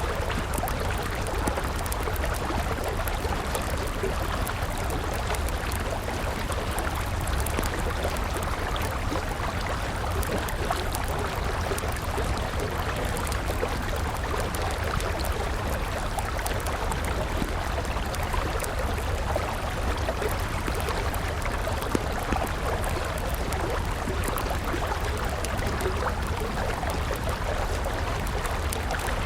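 A river flowing steadily, with a wood campfire crackling over it in scattered small pops.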